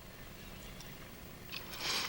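Quiet, steady room tone with a faint hiss, and a brief soft hiss about one and a half seconds in.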